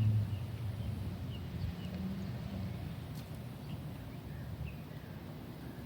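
Outdoor ambience: a steady low rumble that slowly fades, with a few faint, short bird chirps.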